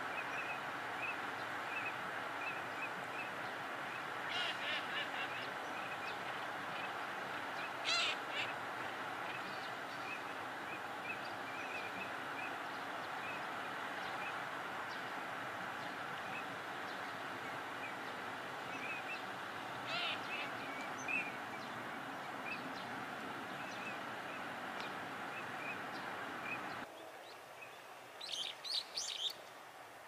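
Small birds chirping: short high chirps repeated again and again, with a few louder clusters of quick calls, over a steady rushing background that drops away near the end.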